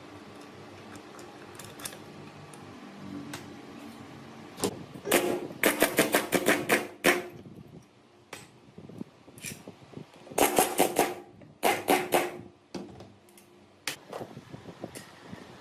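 Two bursts of rapid sharp knocks, about six a second, one about five seconds in and another about ten seconds in, with a few single knocks between, over a faint steady hum.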